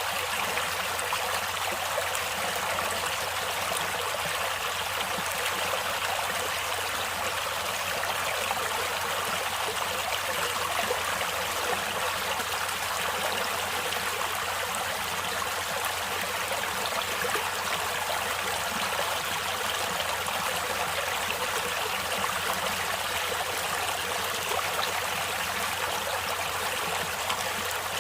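A stream or small river flowing steadily over rocks, a constant rushing of water with a light trickling edge.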